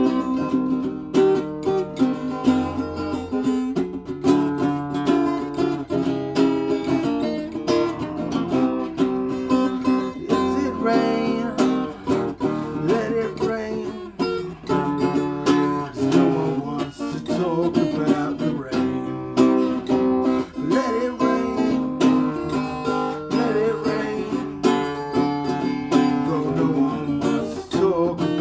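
Acoustic guitar playing an instrumental passage of strummed and picked chords at a steady, even pace.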